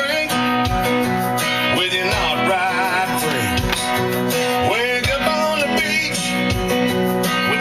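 Country song with strummed acoustic guitar and a singing voice, playing over the truck's Bose stereo; it starts abruptly just before this point.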